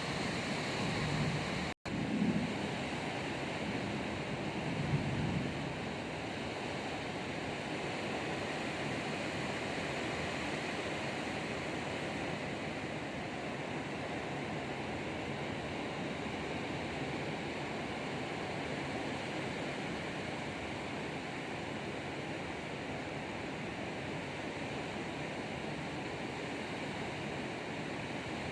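Heavy rain pouring in strong wind, a steady rushing noise, with low rumbles in the first few seconds.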